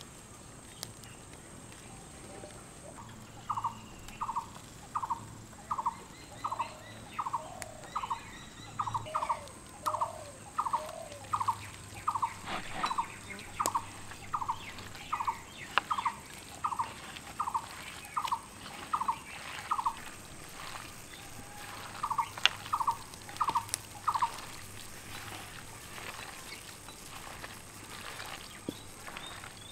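A bird calling over and over, a short falling note about one and a half times a second that stops for a moment about two-thirds of the way through, then gives a few more. Under it are faint soft clicks and rustles from hands mixing chopped vegetables in a wooden bowl.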